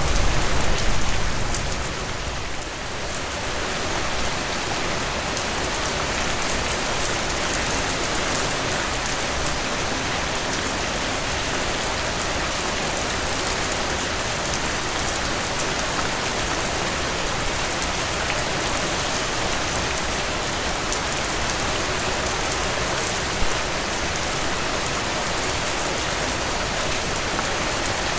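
Steady rainfall: an even hiss of many raindrops, with no thunder. The first couple of seconds are slightly louder with more low rumble before the sound settles, and there is one sharper drop tap about 23 seconds in.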